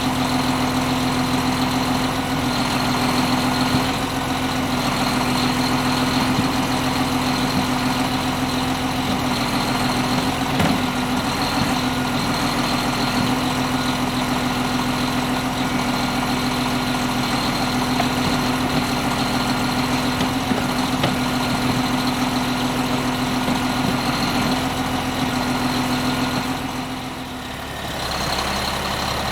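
A 2010 Prinoth Leitwolf W snow groomer's MAN diesel engine running steadily at idle, with a constant high whine over the engine note. It briefly dips in loudness near the end.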